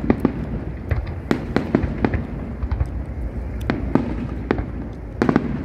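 Aerial fireworks bursting: a rapid, irregular string of sharp bangs and cracks, several a second, over a steady low rumble.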